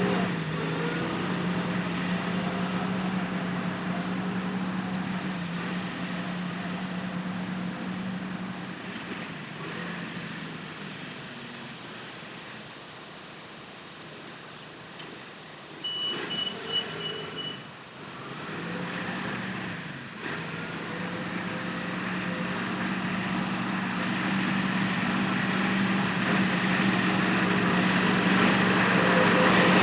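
Tractor diesel engine running steadily. It fades into the distance and then grows louder again as it comes back. About halfway there is a short run of high beeps and a few knocks.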